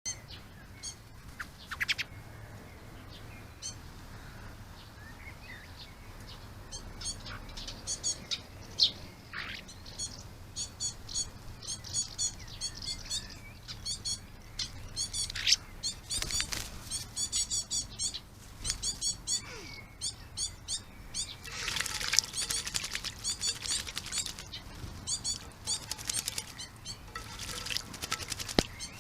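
Small garden birds chirping: many short, high calls repeated in quick runs, getting busier in the second half, with a few brief noisy bursts mixed in.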